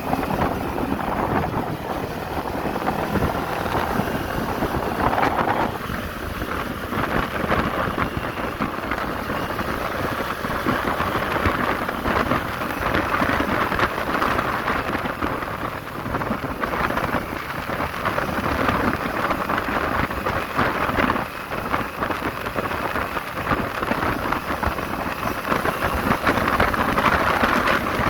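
Wind rushing and buffeting over the microphone of a Kawasaki Z400 motorcycle riding at speed, largely drowning out the engine; it grows louder near the end.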